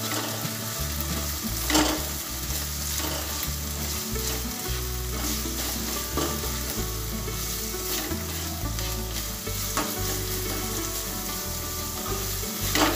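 Chopped carrots and onions sizzling in hot vegetable oil in a nonstick kadai while a spatula stirs them. The spatula scrapes and taps the pan now and then over the steady sizzle.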